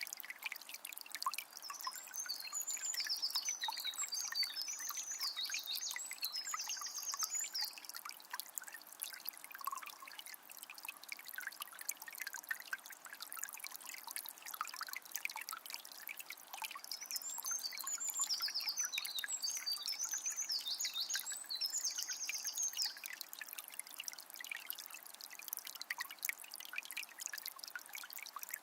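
Small spring trickling and dripping steadily, full of small splashy clicks. A songbird sings a few seconds of quick, high notes twice, about two seconds in and again past the middle.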